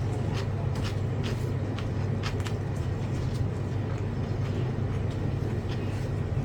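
Someone eating, with scattered short mouth clicks and smacks about once or twice a second, over a steady low hum.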